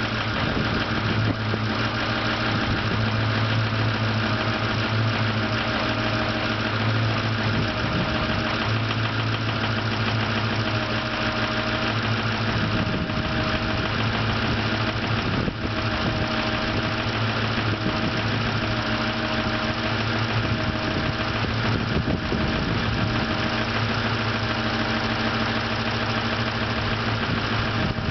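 Straight-piped 6.0 L Power Stroke V8 turbo diesel of a 2003 Ford F-350 idling steadily, still cold from a start in sub-freezing weather. One cylinder runs a little rough, which the owner puts down to a worn exhaust lobe on the camshaft.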